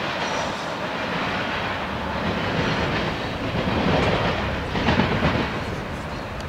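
Freight train cars rolling away over the rails in a steady rumble and clatter, with a louder swell of noise about two-thirds of the way through. A car drives over the grade crossing near the end.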